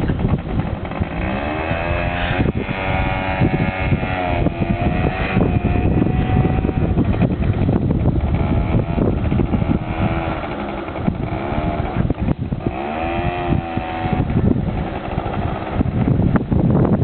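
Quad bike engine running while riding, its pitch rising and falling several times as the throttle is opened and eased off.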